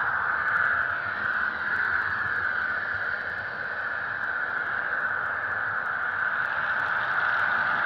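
HO-scale model train running along the track: a steady whirring rolling noise with faint scattered clicks.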